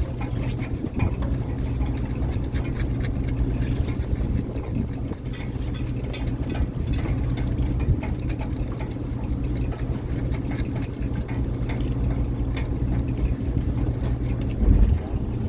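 Fishing boat's engine running steadily at a low hum, with scattered small clicks and knocks over it and a louder low thump near the end.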